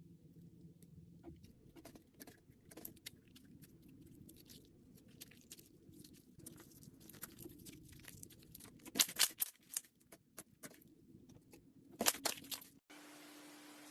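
Irregular small crackling clicks, with two louder clusters of crunching crackles about nine and twelve seconds in. Near the end it cuts abruptly to a steady hiss with a low hum.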